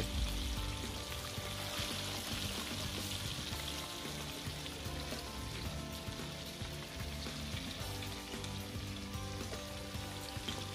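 Chicken pieces frying in a pot of hot oil: a steady sizzle, with quiet music underneath.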